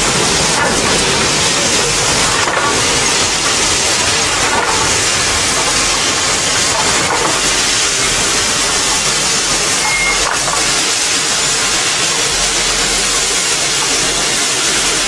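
Steam locomotive letting off steam: a loud, steady hiss with a few faint clicks.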